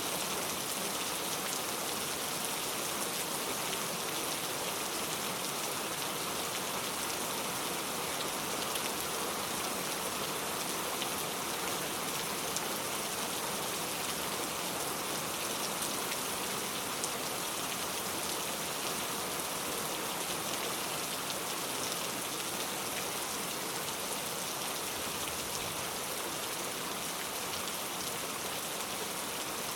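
Steady rain falling, an even hiss of many drops with faint individual patters and no change in strength.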